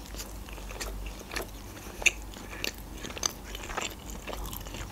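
A person biting and chewing a slice of meat pizza, with short crisp crunches of the crust scattered through, a few louder ones in the middle.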